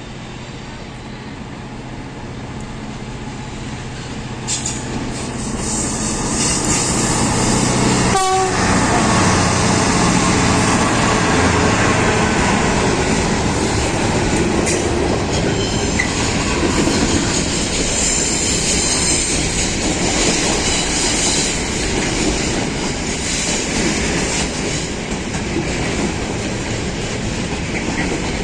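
A train passing at speed: its rumble builds over the first few seconds, then the steady rush and clatter of wheels on rail continues as the carriages go by. There is a brief sharp sound about eight seconds in.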